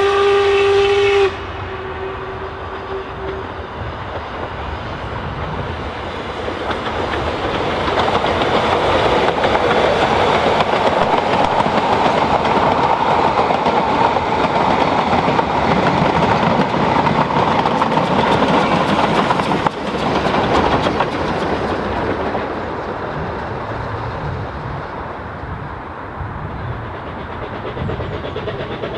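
A narrow-gauge train's whistle sounds briefly and cuts off about a second in, then the train runs by, its running noise building over several seconds, staying loud for a long stretch and easing toward the end.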